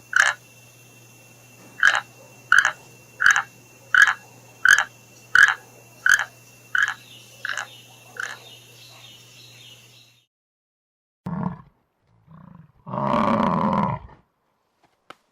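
An animal, probably a frog, croaking in a steady series of short calls about 0.7 s apart that fade out. After a brief silence, a different animal gives a short low growl and then a longer, louder deep roar.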